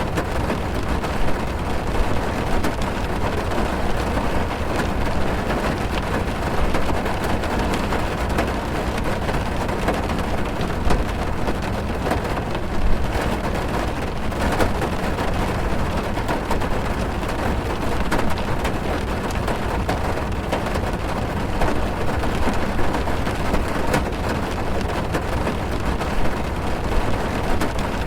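Rain heard from inside a car: a steady, dense patter of drops on the roof and windows, with a low rumble beneath and scattered sharper drop hits.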